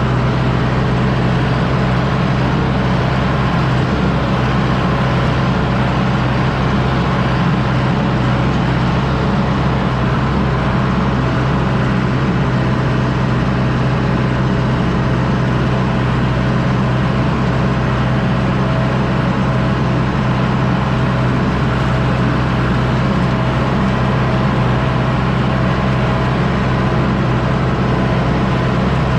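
John Deere 6110D tractor's diesel engine running steadily while pulling a disc harrow: a loud, constant low hum at an unchanging pitch, with no revving or let-up.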